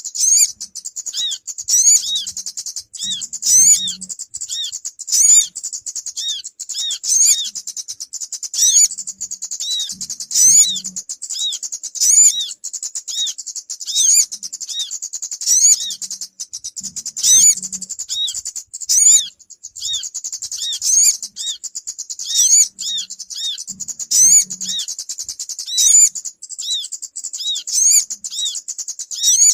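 Bird-trapping lure recording of agitated sogon calls mixed with kemade calls: a dense, high-pitched chattering with sharp down-slurred chirps repeating about once a second, in an evenly looping pattern.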